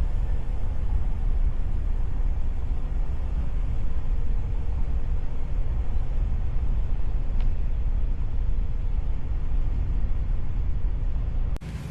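Steady low road rumble of a moving car. Just before the end it breaks off and gives way to a different steady hum.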